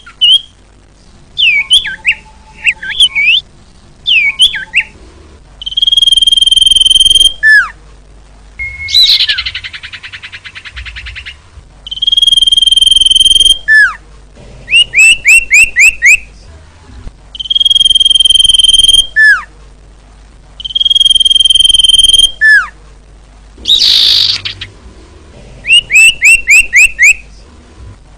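Female common iora (cipoh/sirtu) calling: long, steady, high whistles of about a second and a half, each ending in a falling note, alternating with quick series of short rising notes, some chattering, and two harsh rattles, repeated over and over.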